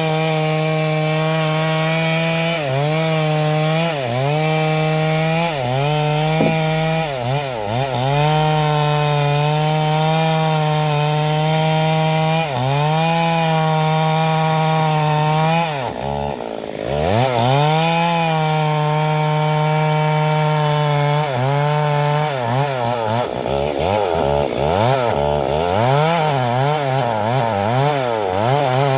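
Stihl MS 382 two-stroke chainsaw cutting sengon wood near full throttle, its revs dipping briefly every few seconds and climbing back. About sixteen seconds in the engine drops briefly toward idle before revving up again, and in the last several seconds the revs rise and fall in quick succession.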